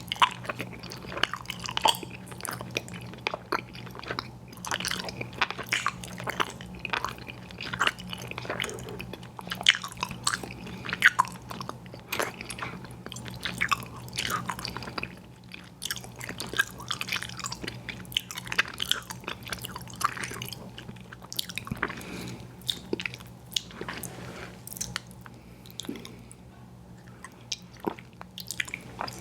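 Close-miked chewing of chewy fruit candy: irregular sticky, wet mouth clicks and smacks, with a faint steady low hum underneath.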